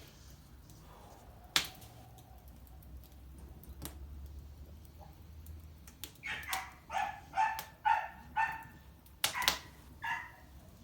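A small dog barking repeatedly, about eight short, high yaps in the second half. There are two sharp pops earlier.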